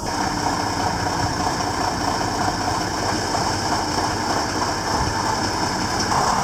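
Tatra V3S army truck's air-cooled diesel engine running steadily.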